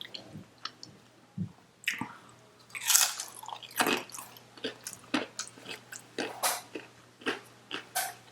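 A person chewing a mouthful of Chipotle burrito bowl food close to the microphone, with irregular wet mouth clicks and smacks.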